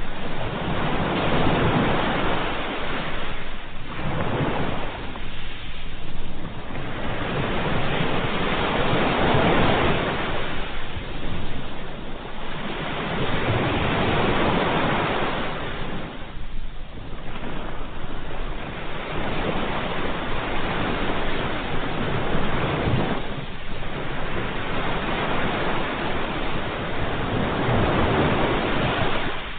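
Ocean surf: waves breaking and washing in continuously, the roar swelling and easing with each wave every few seconds.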